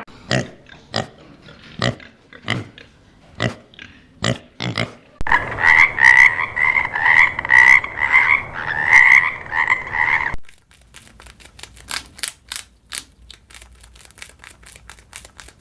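Frog calls: short single croaks at first, then a loud pulsing chorus of many calls that stops abruptly about ten seconds in, followed by fainter rapid clicking calls.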